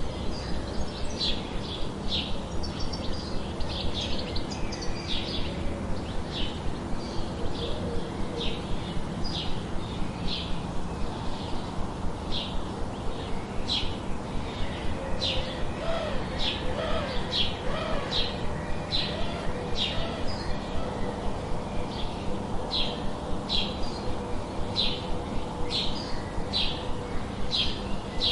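Birds chirping: short, high chirps repeated about once or twice a second, with a few low cooing notes around the middle, over a steady background hiss.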